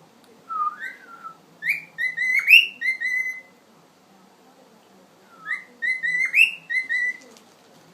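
Pet cockatiel whistling a learned tune. The same short phrase comes twice with a pause of about two seconds between: a low slurred note, a run of clear notes, a quick upward swoop, then held notes.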